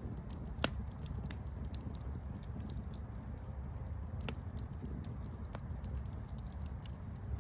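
Campfire burning: a low steady rumble of flames with scattered crackles, and a sharp pop just under a second in and another about four seconds in.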